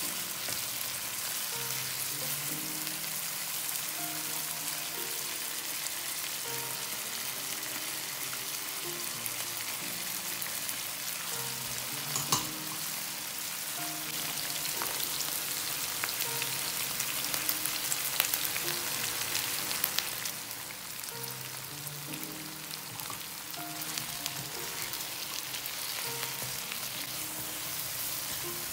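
Onion and chicken pieces sizzling in hot oil in a non-stick pan while a spatula stirs, with a few sharp clicks of the spatula against the pan. The sizzle eases about two-thirds of the way through.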